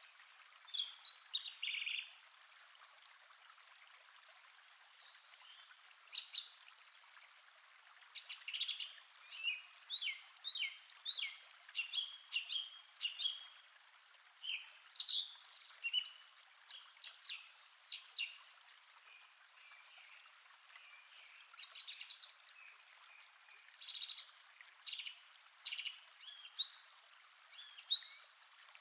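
Several songbirds singing and calling at once: a steady stream of short chirps, quick trills and whistled notes, overlapping, over a faint steady hiss.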